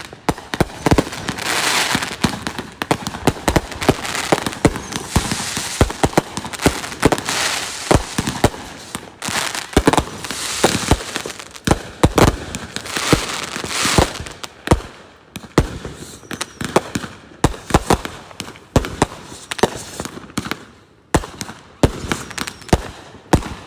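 Fireworks going off in rapid, continuous succession: many sharp bangs a second over crackling.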